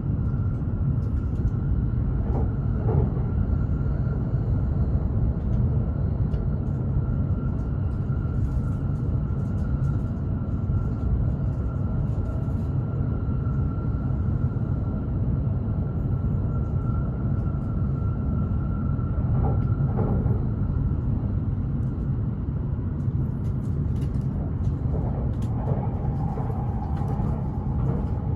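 Steady low rumble of a Hokuriku Shinkansen train running, heard inside the passenger cabin, with a faint high whine through most of it and a lower whine near the end.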